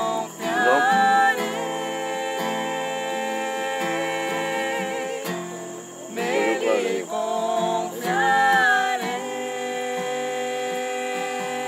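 Singing with acoustic guitar accompaniment, a slow song with long held notes that waver in pitch, broken by short gliding phrases.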